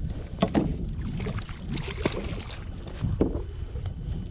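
Wind buffeting the microphone and water against a kayak, with a few sharp knocks.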